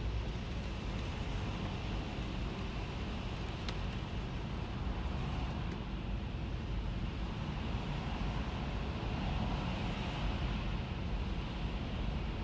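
Steady road noise inside a moving car in the rain: a low rumble from the car, with the hiss of tyres and rain on the wet road. There is one faint click about four seconds in.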